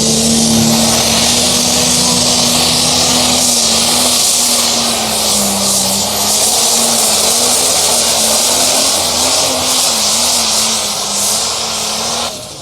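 Pulling truck or tractor engine at full throttle during a pull, a loud steady running note that wavers slightly in pitch under a dense high hiss, dropping away sharply near the end.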